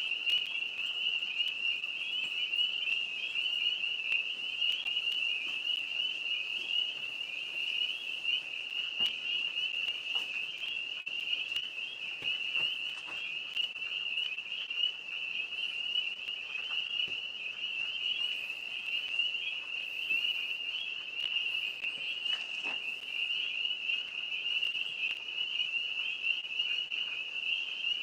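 A dense chorus of many tree frogs calling at once from the trees, one steady high-pitched trilling drone.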